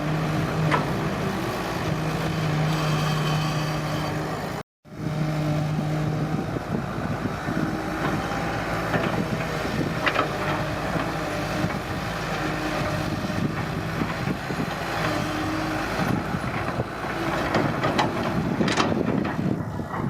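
Heavy excavator's diesel engine running steadily with a constant hum. The sound cuts out completely for a moment about five seconds in, then the machine noise resumes with a few short knocks.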